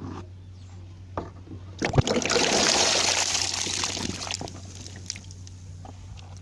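Water poured out in a stream for about two and a half seconds, beginning about two seconds in with a sharp splash and then tapering off.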